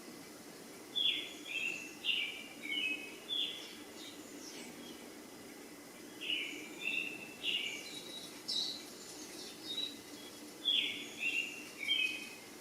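A songbird singing a short phrase of several quick, high chirps, repeated three times, about every four to five seconds, over a faint low hum.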